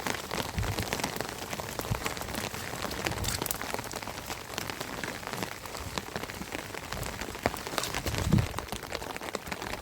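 Steady rain falling, with many drops ticking on nearby surfaces. A short low thud sounds about eight seconds in.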